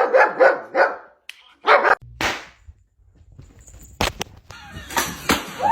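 A dog barking: a quick run of short barks in the first second, then two more barks around two seconds in, followed by a few sharp knocks later on.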